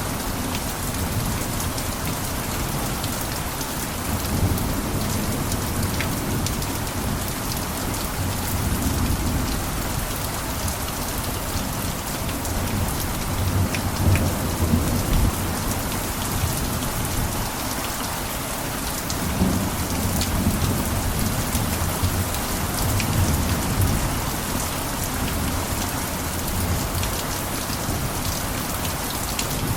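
Steady rain falling on a roof, an even hiss with a low rumble that swells and fades several times.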